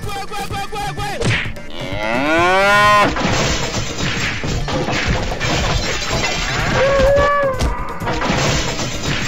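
Cartoon cows mooing twice in the first three seconds, the second moo rising in pitch. Then a dense clatter of whacks and crashes from a cartoon brawl, with a short cry about seven seconds in.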